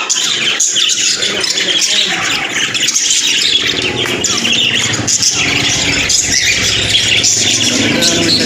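A flock of pet budgerigars and cockatiels chattering and squawking continuously, with a low rumble underneath from about halfway in.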